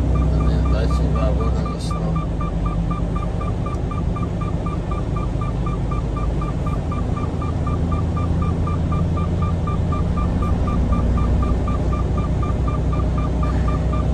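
Semi-truck engine running with a steady low drone, with a faint beeping tone pulsing about four times a second over it.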